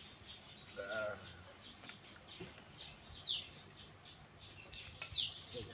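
Small birds chirping: a run of short, high chirps, each falling in pitch, coming more often in the second half.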